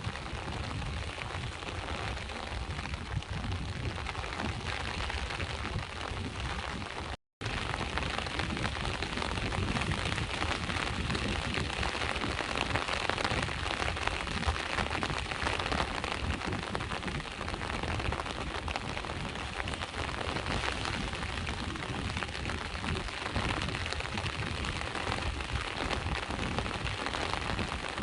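Steady rain with sea waves behind it: a continuous even hiss with a low rumble underneath. It cuts out for a split second about seven seconds in, then comes back slightly louder.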